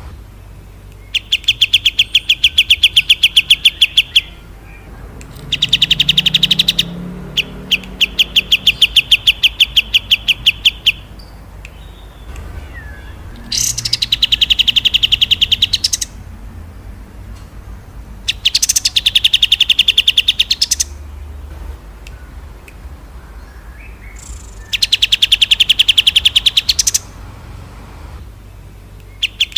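A small songbird singing a series of fast, rattling trills of about ten sharp notes a second, each burst lasting two to three seconds, with short pauses between.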